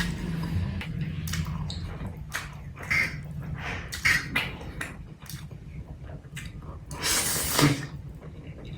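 Close-miked eating sounds of black bean noodles (jjajangmyeon): wet chewing and mouth smacks in quick irregular strokes, with one longer, louder noisy burst near the end.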